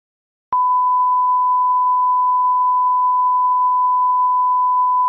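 A steady electronic tone, a single pure pitch near 1 kHz, cutting in abruptly with a click about half a second in and holding at one level.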